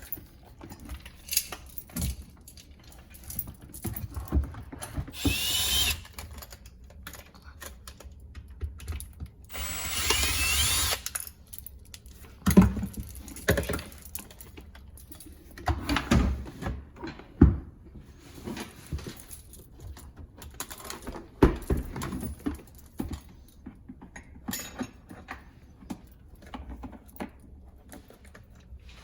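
Hand tools and parts knocking and clicking on a garbage disposal, with two short runs of a power drill about five and ten seconds in.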